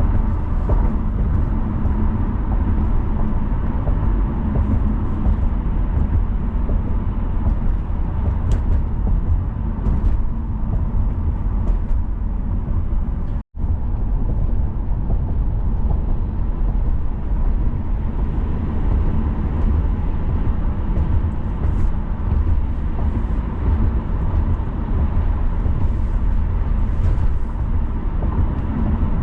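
Steady road and engine noise of a car driving, with tyre rumble. The sound cuts out for an instant about halfway through.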